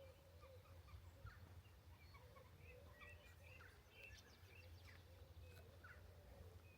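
Faint birdsong: several birds chirping and calling throughout, some short high notes and some lower, rounded, repeated calls, over a steady low rumble.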